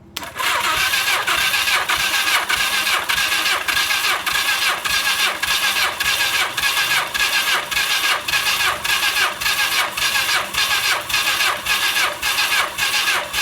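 1982 Suzuki GS1100's electric starter cranking the inline-four engine over during a compression test. It makes a steady whir with an even pulse of about two a second as the pistons pump against the gauge, and stops near the end.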